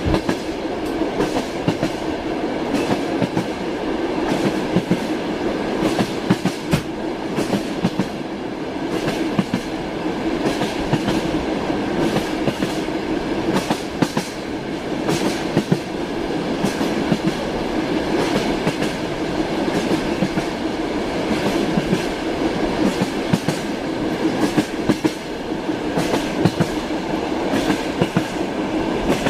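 A train running steadily, its wheels clattering over rail joints in frequent sharp clicks above a continuous rumble.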